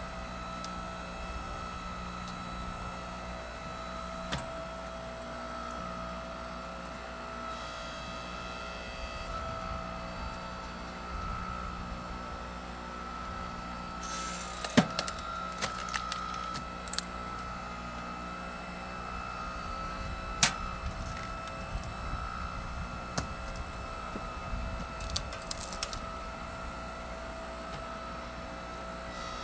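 Engine-driven hydraulic log splitter running steadily, with sharp cracks and splintering as logs split, the loudest cracks about fifteen and twenty seconds in.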